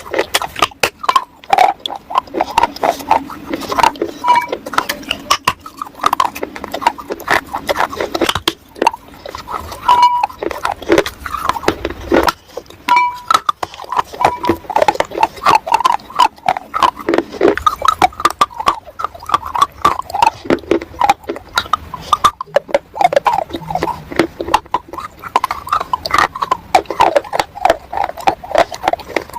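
Close-up biting and chewing of dry roasted clay: rapid, irregular crunches with no let-up.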